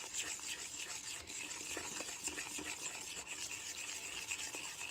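Slime being stirred and worked by hand in a container: a steady soft rubbing and scraping with small irregular clicks.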